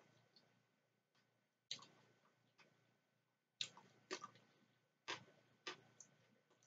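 Close-miked chewing of macaroni salad with closed-mouth, wet lip smacks and clicks, about six sharp ones at irregular gaps of roughly a second.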